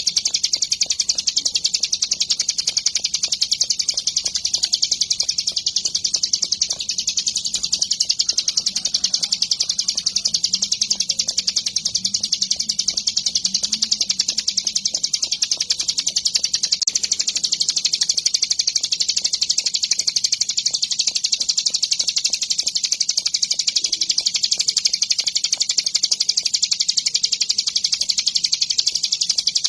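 Ciblek gunung, a prinia, singing nonstop in a fast, high, unbroken run of chirps at an even level.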